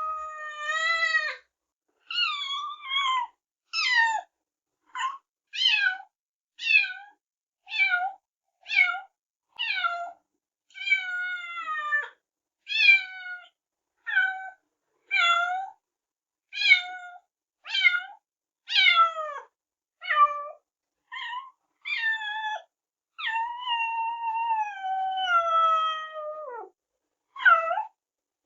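Kittens meowing in a steady run of high, falling-pitched mews, about one or two a second, with a couple of longer drawn-out meows near the start and past the middle.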